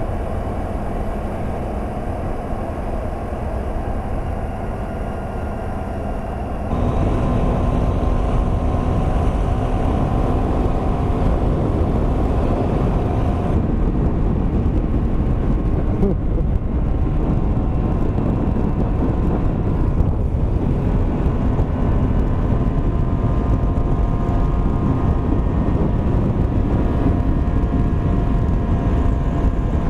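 Honda Varadero 125 motorcycle being ridden, its small engine running steadily under a heavy rush of wind and road noise; the noise steps up louder about seven seconds in.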